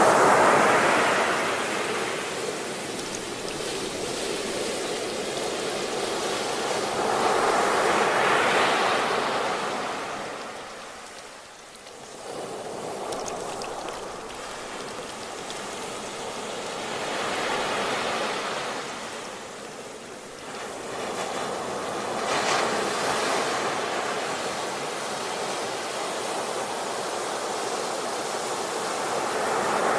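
Ocean waves breaking and washing ashore, surging and falling back in slow swells several seconds apart, with a lull about a third of the way in.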